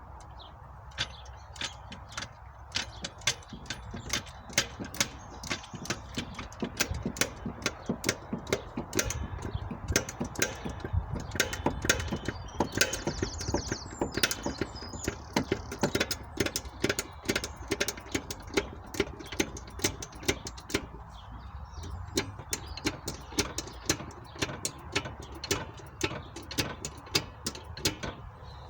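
Car jack being worked to raise the car, a long run of sharp metallic clicks, a few a second, busiest in the middle.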